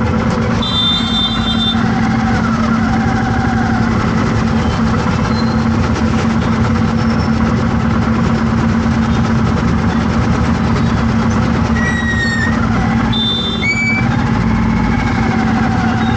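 Road traffic with a steady engine hum, broken by short vehicle horn honks about a second in and a few more near the end.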